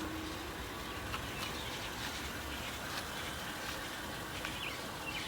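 Outdoor ambience: a low steady rumble with a few light clicks, and birds chirping faintly near the end.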